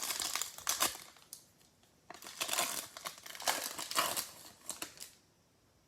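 Plastic wrapping crinkling as trading-card packs are handled, in two spells: through the first second, then again from about two seconds in until near the end.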